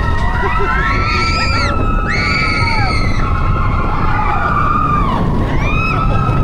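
Big Thunder Mountain Railroad mine-train roller coaster running along its track with a loud, steady rumble, and high squeals rising and falling over it, the loudest about a second to three seconds in.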